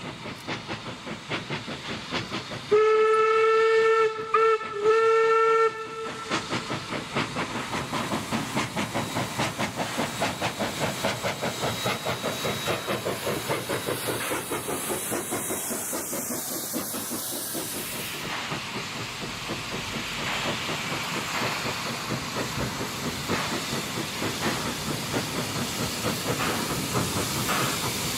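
Steam locomotive working, its exhaust chuffing in a steady beat over hissing steam. About three seconds in, its steam whistle sounds for about three seconds, broken twice by short gaps.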